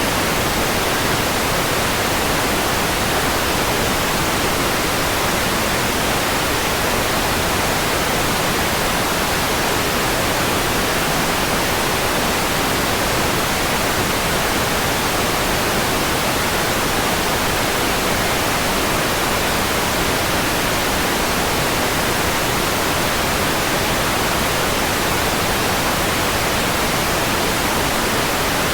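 Steady white noise: an even, unbroken hiss, strongest in the upper range.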